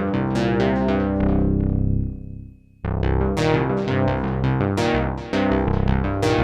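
Sequential Prophet-6 analogue polyphonic synthesizer playing a factory preset: a fast run of short, bright plucked notes over bass notes. The notes die away about two seconds in, and a new run starts abruptly just before three seconds.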